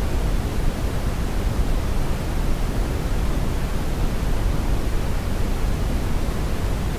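Brown noise: a steady, even rumbling hiss, strongest in the low end and tapering off toward the highs, with no change.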